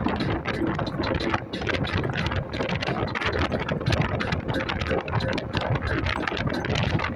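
Wind rushing and buffeting over the microphone, with tyre and road noise from an electric scooter ridden at speed.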